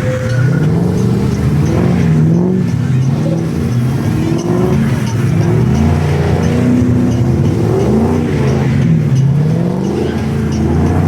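Car engines revving, the pitch climbing and dropping again and again as they accelerate and shift, with more than one engine heard at once.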